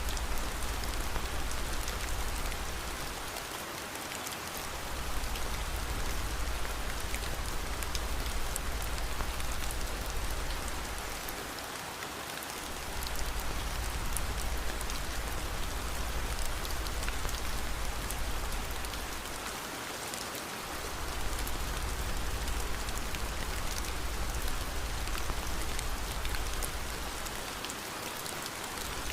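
Steady rain, with a deep low rumble underneath that fades briefly about every eight seconds.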